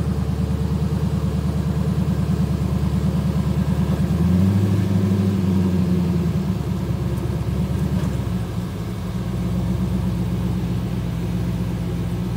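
Twin-turbo Mustang engine idling with a choppy, pulsing beat. It is brought up slightly in revs about four seconds in, held briefly, then settles back to idle.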